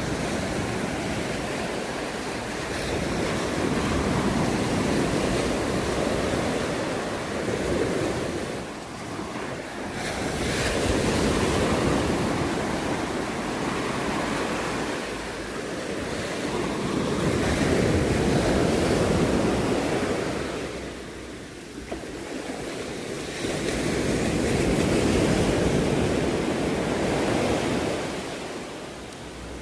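Sea waves breaking and washing up a beach, the surf swelling and easing off in slow cycles about every five to seven seconds, with some wind rumbling on the microphone.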